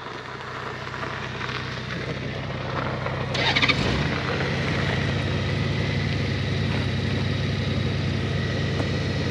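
Motorcycle engine running steadily, a little louder from about three and a half seconds in, with a brief high-pitched sound at that point.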